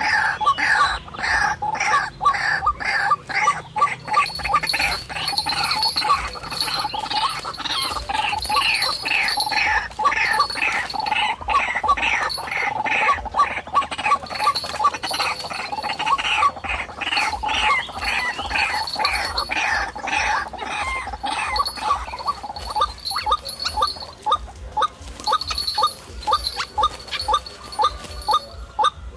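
White-breasted waterhen (ruak-ruak) calls: a loud, rapid, unbroken series of repeated notes, about three to four a second, of the kind used to lure the birds to a trap.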